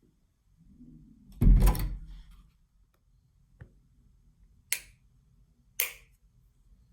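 A heavy thud about a second and a half in, followed by three separate sharp clicks spread over the next few seconds, the last two the brighter.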